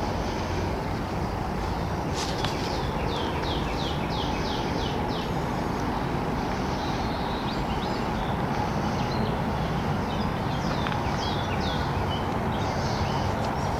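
Outdoor ambience: a bird calling in quick series of short, high, descending chirps over a steady low rumble of background noise.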